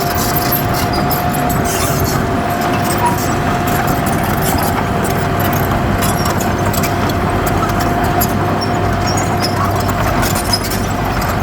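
Heavy diesel earthmoving machinery running steadily under load, its engine noise carrying a steady high whine and scattered light clicks.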